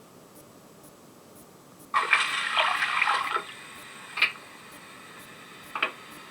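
Model railcar sound decoder playing an Irish Rail 29000-class unit's air system: a sudden rush of air hiss about two seconds in, lasting about a second and a half, then a quieter steady hiss with two short sharp blasts.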